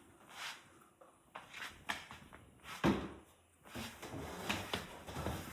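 Robot vacuum moving erratically, with scattered light knocks and scuffs. The loudest knock comes a little under three seconds in, then a steadier low rustling.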